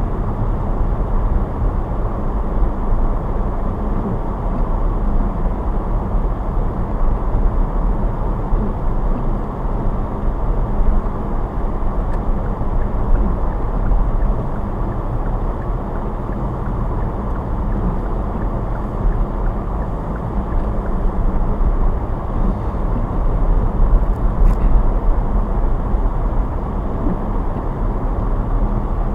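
Car driving at a steady pace: engine and road noise, a constant low rumble.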